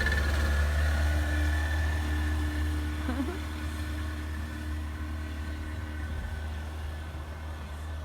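Boat engine running with a steady low hum, slowly getting quieter.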